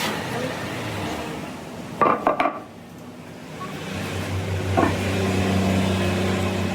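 Metal parts clanking and knocking sharply a few times about two seconds in, then a steady low machine hum that sets in and holds.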